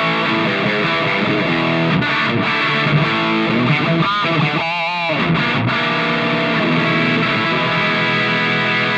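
Electric guitar played through a combo pedal's distortion channel with the gain turned all the way up, showing its most saturated, maximum-distortion tone. The notes ring on in a dense sustained wall, with a wavering vibrato bend about four to five seconds in.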